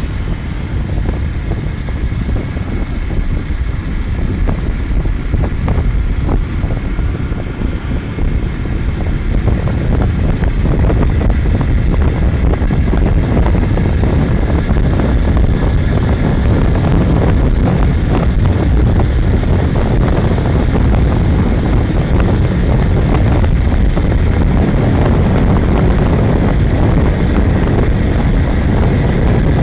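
Motorcycle on the move: engine and road noise with wind on the microphone, growing louder about ten seconds in and then holding steady.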